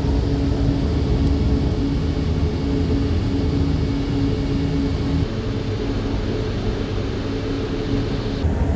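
Jakarta LRT light-rail train running, heard from inside the car: a steady rumble of wheels and track with a steady motor hum that drops out about five seconds in, and the low rumble swells again near the end.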